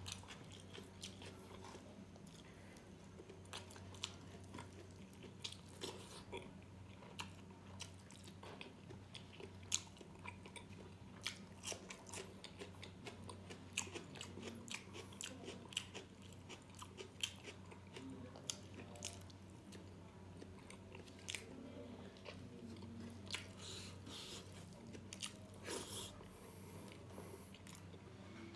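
Close-miked wet chewing and lip-smacking from someone eating soft rice and gravy by hand, many short sharp mouth clicks at irregular intervals over a faint steady low hum.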